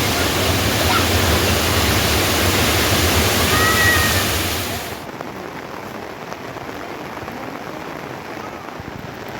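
Loud steady rush of water, cutting off suddenly about five seconds in to a quieter steady hiss. A brief high whistle is heard just before the cut.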